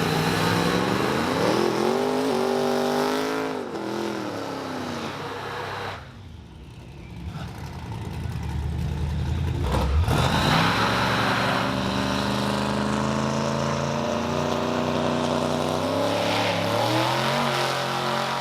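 Drag-racing car engines revving, the pitch rising and falling several times, then a low surge that cuts off about halfway, followed by steady engine running with another rev near the end.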